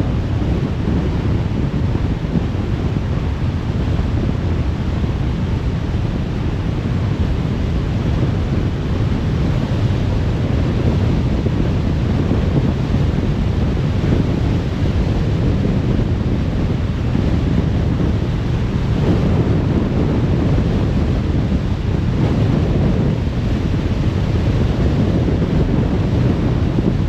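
Steady road noise of a car cruising on a motorway: tyre rumble and wind, heavy in the low end, with no breaks or changes.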